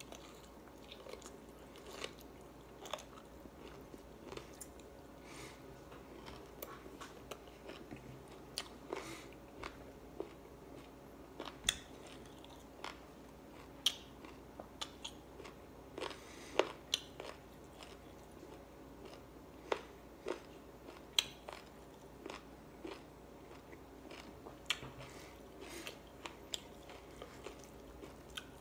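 A person chewing mouthfuls of rice and chicken eaten by hand, close up: irregular sharp mouth clicks and wet chewing sounds.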